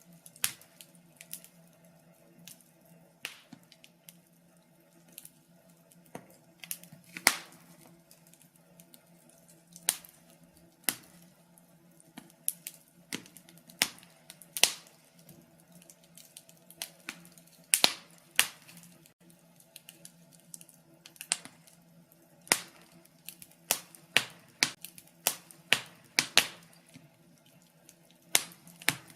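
Wood fire crackling in a fireplace: sharp, irregular pops and snaps, spaced out at first and coming in quicker clusters near the end, over a faint steady low hum.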